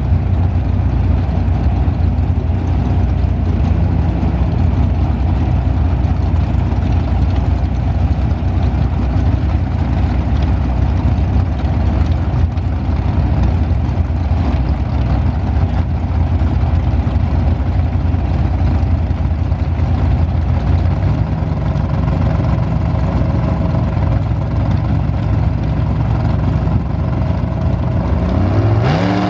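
Two drag-race cars' engines idling at the starting line, one of them a 1961 Ford Fairlane, loud and steady. Near the end an engine revs up, its pitch rising quickly, as the launch begins.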